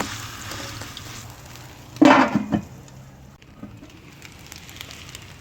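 Potato cutlets sizzling in a pan over a fire, with a brief loud clatter about two seconds in.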